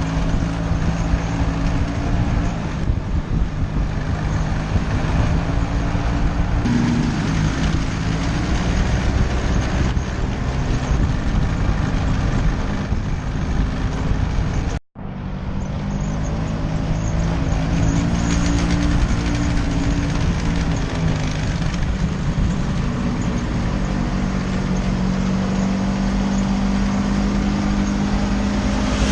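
Vespa scooter engine running steadily on the move, with wind noise over the microphone. The sound cuts out for an instant about halfway through.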